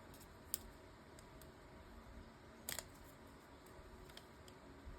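Faint paper-crafting handling sounds: a sharp click about half a second in, a short scratchy peel near three seconds and a few soft ticks, as small die-cut paper pieces are pulled off their glue dots.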